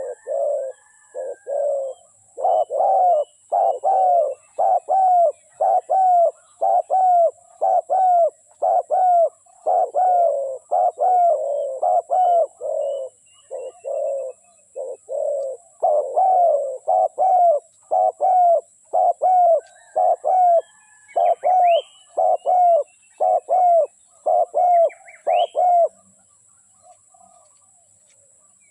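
Spotted dove cooing in a long unbroken run of low notes, about two a second, that stops about 26 seconds in. Small birds chirp faintly at a higher pitch.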